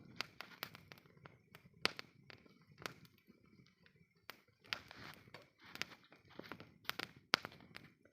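Burning wood crackling, with irregular sharp pops and snaps over a soft low rumble of the flames. The loudest pops come about two seconds in and near the end.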